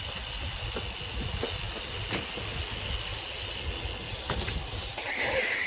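Steady outdoor hiss with an uneven low rumble and a few faint, short knocks.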